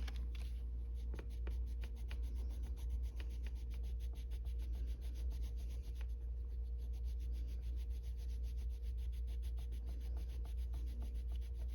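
Colored pencil rubbing back and forth on paper in quick, even strokes, as an area is filled in with colour. A steady low hum runs underneath.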